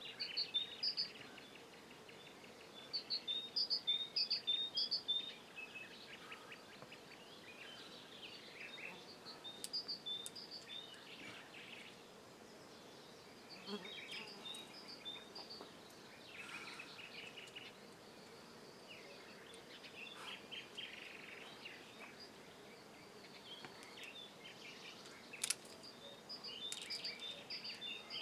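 Small birds chirping in bouts of quick, high, repeated notes over a faint steady hiss, with a single sharp click a little before the end.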